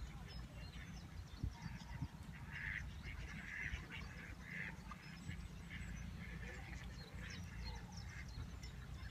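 Waterfowl on a river calling: a series of short calls, strongest between about two and a half and five seconds in, then fainter ones, over a steady low rumble.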